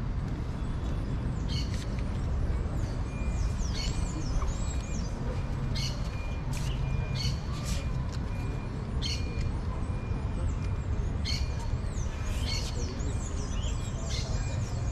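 Small birds chirping again and again in short, high, quick sweeps, over a steady low background rumble.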